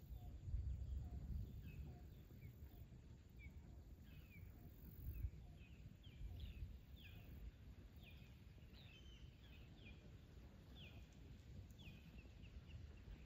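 Birds chirping faintly, a long series of short quick calls that come more often in the second half, over a low rumble.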